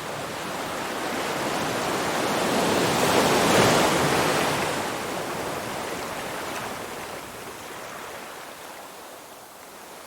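Ocean waves: one wave swells up, breaks about three and a half seconds in, and washes out slowly as it fades.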